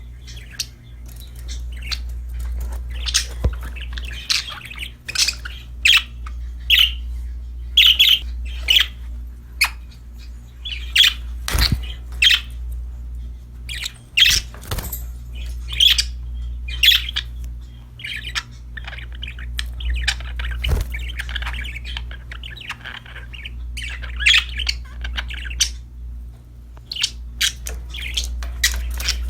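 Budgerigars chirping and squawking in quick, overlapping short calls, with a few sharp taps and a steady low hum underneath.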